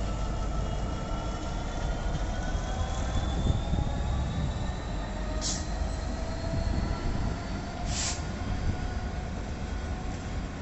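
A train moving at a station, with a low rumble and a slowly rising whine. Two short hisses come about five and eight seconds in.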